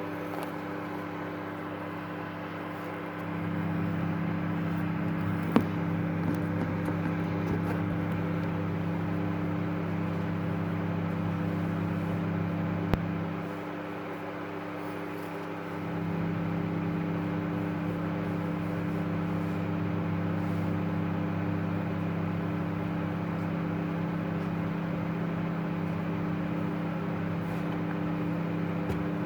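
Microwave oven running with a jaffa cake inside: a steady electrical hum, with a deeper, louder layer that comes in about three seconds in, drops out for a couple of seconds near the middle, then resumes. Two sharp clicks stand out, one early and one near the middle.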